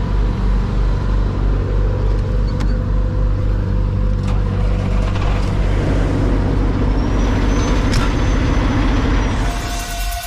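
Semi truck's diesel engine running under way, a steady low rumble, with a few sharp clicks and a faint high tone in the second half.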